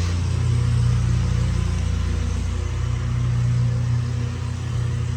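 A motor vehicle's engine running at a steady idle: a low, even hum.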